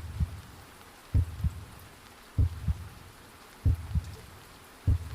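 Heartbeat sound effect: slow double thumps (lub-dub) about every second and a quarter, five beats in all, over a faint steady rain ambience.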